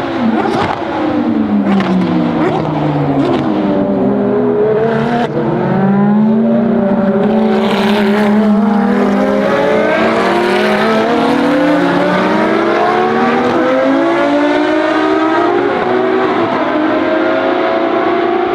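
Ferrari FXX Evoluzione's V12 racing engine on track. It comes off the throttle with sharp exhaust crackles as the pitch drops over the first few seconds, then pulls hard with the note climbing steadily.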